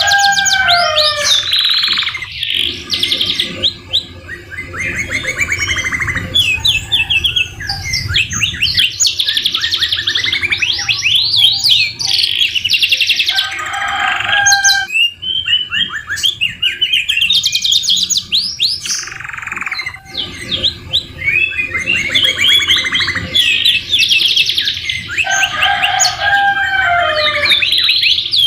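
Domestic canary singing continuously: long runs of rapid trills and rolling warbled phrases, laced with white-rumped shama (murai batu) phrases. Lower, descending whistled phrases come near the start and again near the end.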